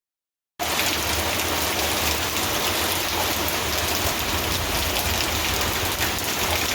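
Rain falling steadily, an even hiss of many drops, cutting in suddenly about half a second in.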